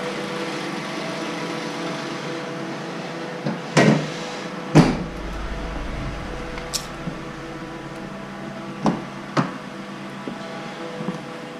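Toyota Avalon's 3.5-litre 2GR-FE V6 idling steadily, with sharp knocks about four and five seconds in, the second the loudest, and two fainter knocks near the end.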